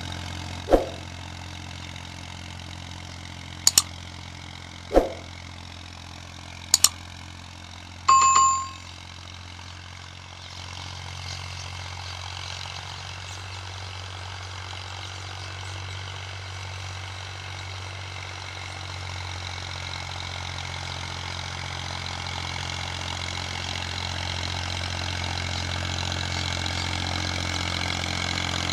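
Massey Ferguson 240 tractor's three-cylinder diesel engine running at a steady speed while pulling a harrow, growing gradually louder through the second half. In the first few seconds there are several sharp clicks and knocks, and about eight seconds in a short high ding.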